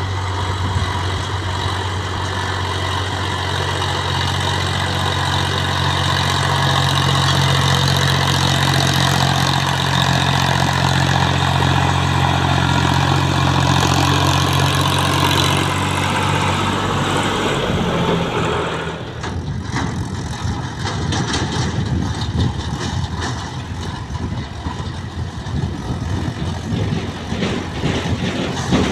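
Tractor diesel engine running steadily with a deep hum. About two-thirds of the way in, the sound changes abruptly to a rougher, uneven clatter.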